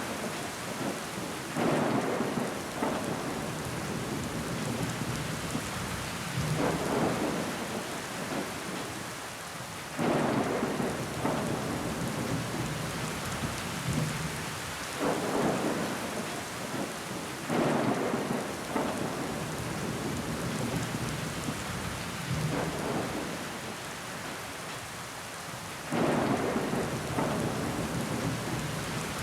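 Steady rain falling, with about seven louder rushes that each swell up suddenly and die away over a second or two.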